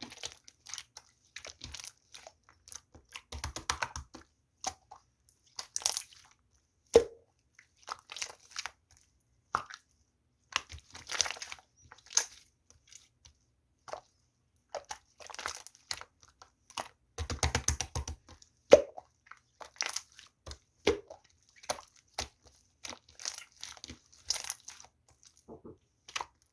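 Chewy clear slime being squished and pressed by hand, giving irregular sticky clicks, pops and crackles with short gaps between handfuls.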